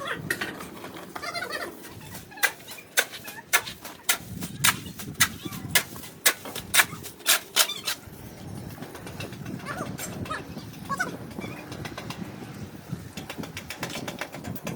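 A run of sharp knocks or blows, about two a second for some five seconds, starting a couple of seconds in.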